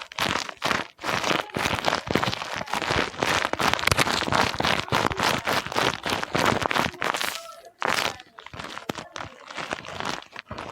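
Paper crinkling and rustling as it is handled: a rapid run of crackles that thins out about seven and a half seconds in.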